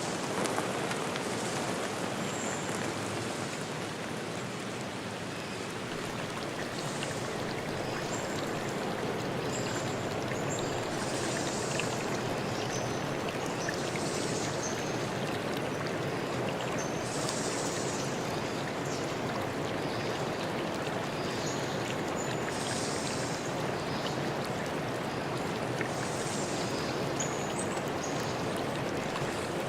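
Stream water running steadily, with high, short chirps repeating every second or two above it.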